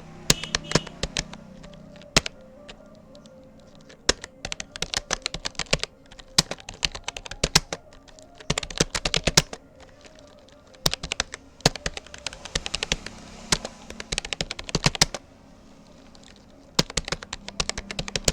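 Touch typing on a Rapoo computer keyboard: rapid runs of key clicks in bursts, broken by two pauses of a second or more.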